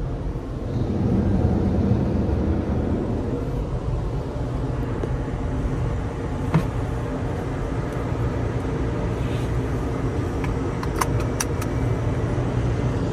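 Steady low rumble of a tunnel car wash's machinery around a stopped car, heard from inside the car, with a sharp click about six and a half seconds in and a few light clicks near the end.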